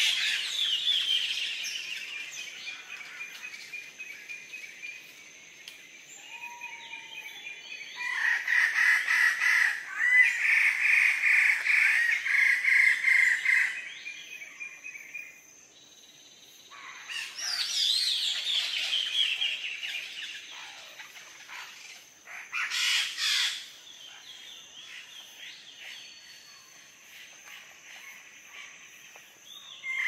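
Wallace's standardwing bird-of-paradise calling in bursts of rapid repeated notes, loudest a little past the first quarter and again in shorter bursts later, with quieter gaps between. A faint steady high tone runs underneath.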